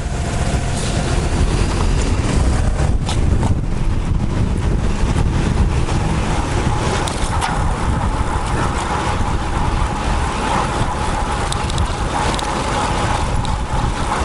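Wind buffeting a bike-mounted action camera's microphone while riding a road bike, mixed with road and traffic noise. A steadier hum swells in the second half, like a vehicle passing close by.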